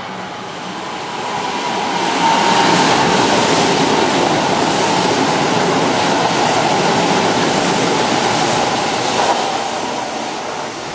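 Electric train running along a station platform close by: the rumble of wheels on rail builds over a couple of seconds, stays loud for several seconds, then eases off near the end.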